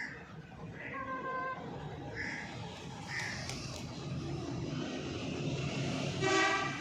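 Animal calls: a few short, high calls in the first half, then one louder, longer call near the end, over a low steady hum.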